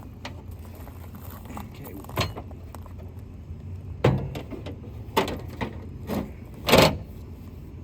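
Tools and parts being handled during work on a VW bus: about five sharp knocks and clanks, the loudest near the end, over a steady low rumble.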